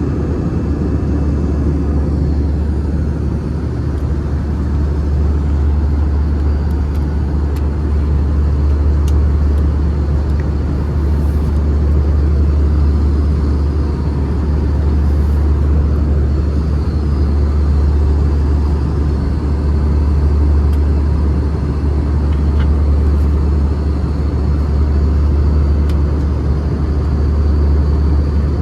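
Steady low rumble inside an Airbus A320's passenger cabin with the engines running, level throughout, with a few faint clicks.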